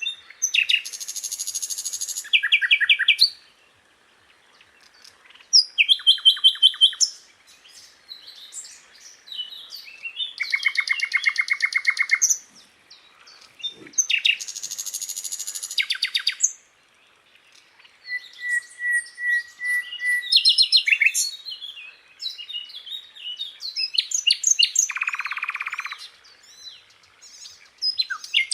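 Sikatan londo flycatcher singing: phrases of a second or two made of fast, rattling runs of repeated notes and chirps, separated by short pauses.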